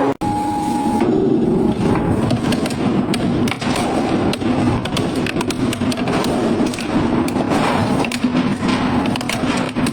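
Industrial shredder grinding metal: a steady heavy machine drone with frequent irregular cracks, bangs and knocks as the metal is torn apart. The sound drops out briefly just after the start.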